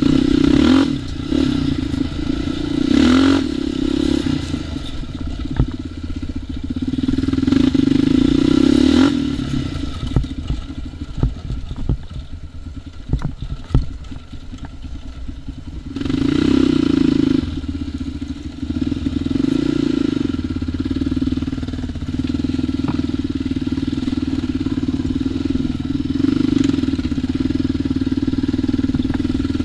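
ATV engine running under load, its pitch swelling and easing off repeatedly with the throttle as the quad is ridden. A quieter stretch midway carries scattered knocks and clattering from the machine over rough ground.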